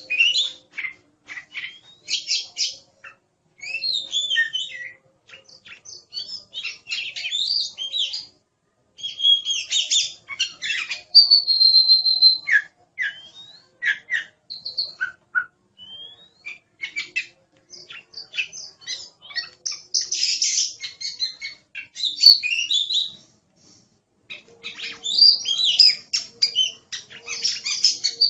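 Oriental magpie-robin singing a long, varied song of rapid chirps, rasping notes and clear whistles, including one held whistle partway through, in bursts with short pauses between.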